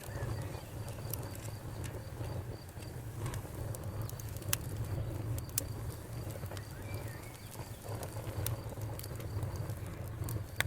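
Wood fire crackling: a steady low rumble of burning with scattered sharp pops and an occasional louder snap.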